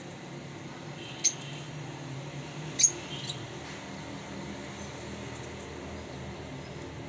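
Lovebird giving three short, shrill chirps, one about a second in and two close together near three seconds, over a steady low hum.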